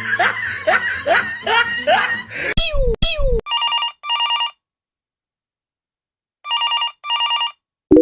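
A telephone ringing in a double-ring pattern: two short rings close together, a pause of about two seconds, then two more. Before it, a short run of laughter.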